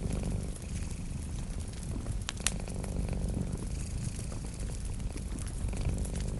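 A cat purring in a steady low rumble over a wood fire crackling with scattered sharp pops, the loudest pop about two and a half seconds in.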